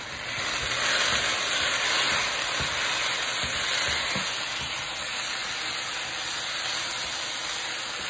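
Fried rice sizzling in a hot pan: a steady frying hiss that swells about half a second in and then holds.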